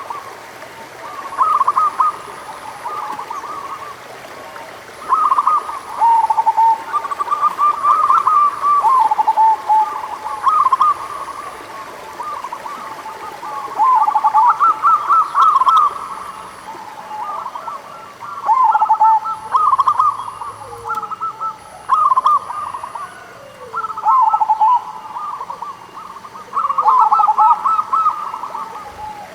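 Local zebra doves (perkutut) cooing: bursts of quick rippling coo notes, repeated every few seconds and sometimes overlapping. This is a lure call meant to set caged zebra doves calling.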